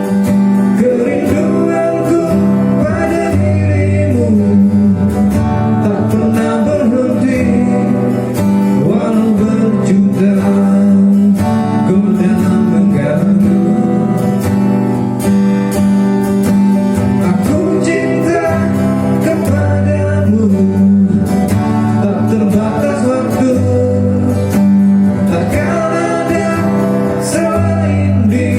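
Acoustic song: a strummed acoustic guitar accompanying a singing voice, the vocal lines coming and going over the steady guitar.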